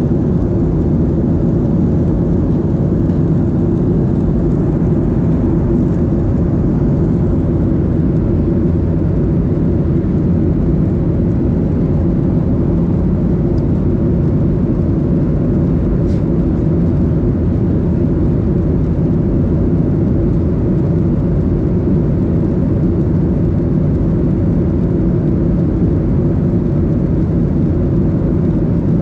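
Steady cabin noise inside a Boeing 737-800 in flight: an even, unbroken rush of engine and airflow noise, heaviest in the low range, with a faint steady hum.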